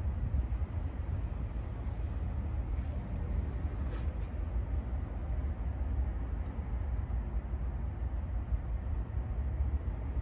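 Supercharged LS9 V8 idling steadily, a low even rumble.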